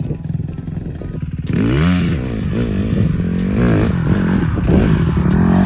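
Dirt bike engine running at low revs, then from about a second and a half in suddenly louder and revving up and down repeatedly as the bike is ridden.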